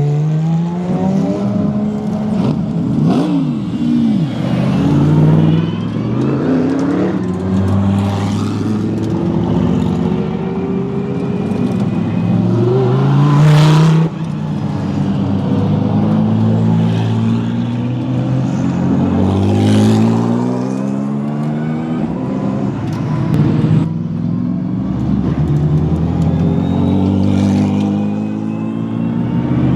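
Several race car engines running at low speed, revving up and down with repeated throttle blips as the cars move past one after another.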